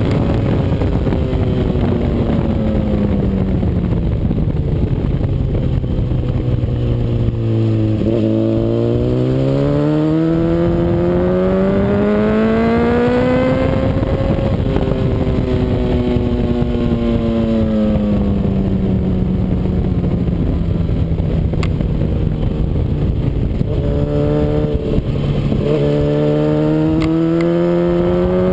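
Honda CBR RR sportbike's inline-four engine on a race track, its note falling as the bike slows for corners and climbing again under hard acceleration, several times over, with a steady rush of wind. Short breaks in the engine note near the start and again near the end mark gear changes.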